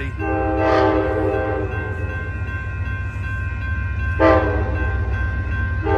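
Amtrak diesel locomotive's air horn sounding a chord: a long blast, a short sharp blast about four seconds in, and another starting near the end, over a steady low rumble of the passing train.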